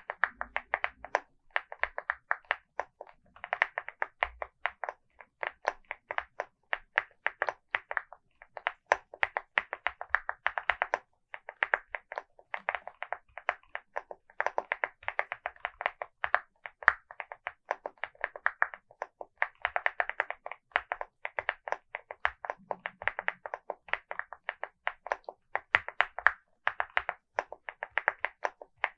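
Typing on a LEOBOG Hi75 mechanical keyboard with Vertex V1 linear switches and MOA-profile keycaps: fast runs of keystrokes with short pauses between bursts.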